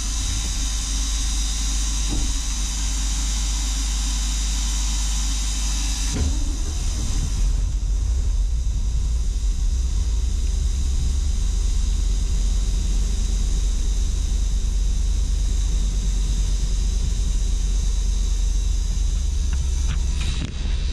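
Ford 370 V8 in a Ford F700 truck running steadily on choke, with a deep rumble; its rebuilt four-barrel carburetor has not yet been adjusted. A high hiss over the engine fades out about six seconds in.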